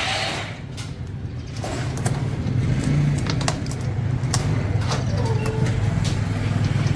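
A steady low engine-like hum that builds up about two seconds in, with scattered sharp clicks and taps over it.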